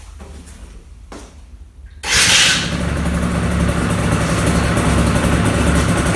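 Yamaha TZM50R's two-stroke single-cylinder engine starting about two seconds in, with a brief rev as it catches, then settling into a steady idle.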